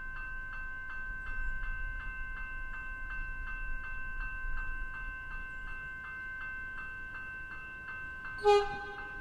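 Level crossing warning bell ringing rapidly and evenly, about three strokes a second, over the low rumble of an approaching suburban electric train. Near the end a loud, short train horn blast sounds.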